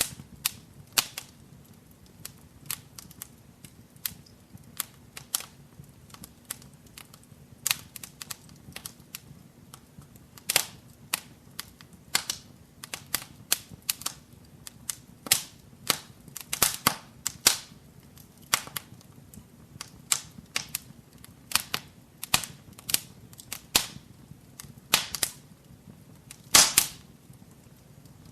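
Wood fire crackling in a fireplace: a steady run of sharp, irregular pops and snaps, a few of them louder, over a faint low hum.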